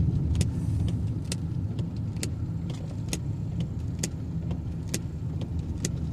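Car driving in heavy rain, heard from inside the cabin: steady low road and engine rumble, with a sharp click about once a second and a fainter click between each pair.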